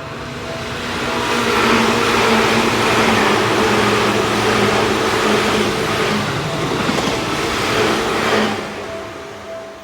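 A Seibu Line electric train passing through a railway crossing: the rumble of wheels on rail builds about a second in, stays loud for about seven seconds, then fades near the end. The crossing's warning bell rings in a steady pulsing tone at the start and again as the train fades.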